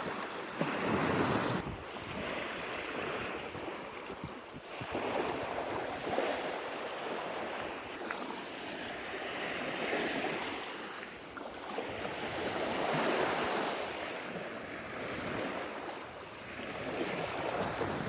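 Small lake waves washing onto a sandy shore, swelling and falling back every three to four seconds, with some wind.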